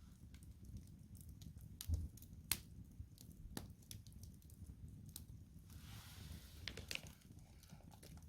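Firewood burning in a campfire, crackling with irregular sharp pops over a low steady rumble; the loudest pops come about two and two and a half seconds in, and a short hiss rises around six seconds in.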